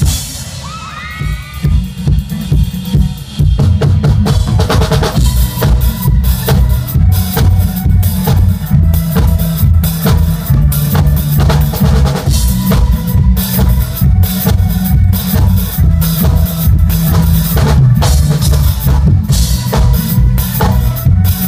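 Drum kit played along to a loud pop backing track: a cymbal crash at the start, a quieter stretch of about three seconds, then a steady driving beat of kick drum and snare.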